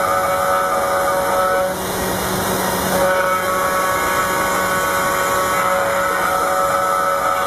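Small CNC router's spindle milling aluminum: a steady high whine over a hissing cutting noise. The whine drops away for about a second, about two seconds in, then returns.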